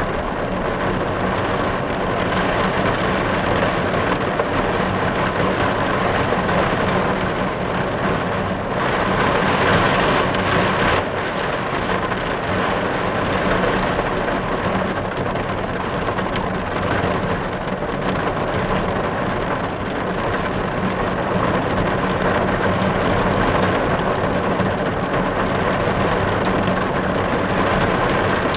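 Steady rain drumming on a car's roof and body, heard from inside the car, a little heavier for a few seconds about a third of the way in.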